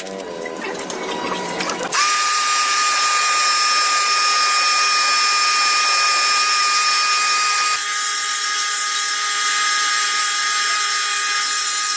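A high-speed power tool switches on about two seconds in and runs steadily with a high-pitched whine, its tone shifting slightly later on.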